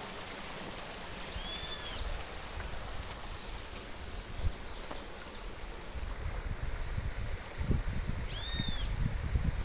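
Stream water running steadily, with a bird giving a short arched call twice, about seven seconds apart. Low rumbling starts partway through.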